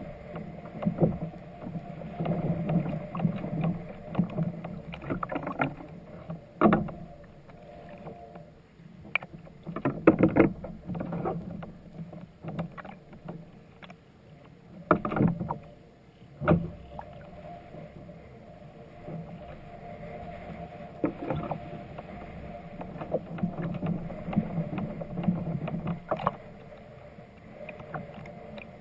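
Knocks and handling noises aboard a fishing kayak over a steady low hum, with a cluster of sharper knocks around the middle.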